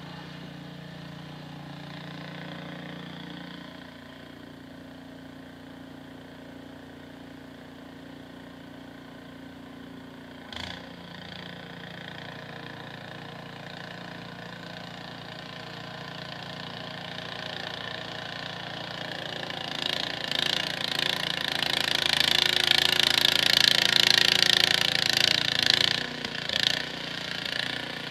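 A small engine running steadily, with one sharp knock about ten seconds in. A louder hissing, rushing noise builds over the second half and drops off near the end.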